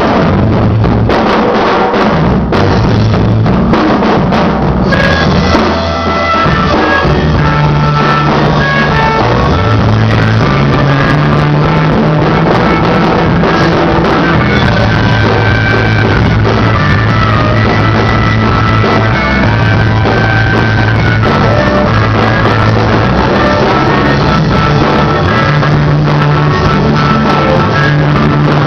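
Rock band playing live: drum kit, a bass line of held notes and electric guitar, with no singing.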